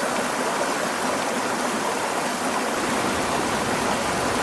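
Düden River water rushing, a steady, even roar of flowing water.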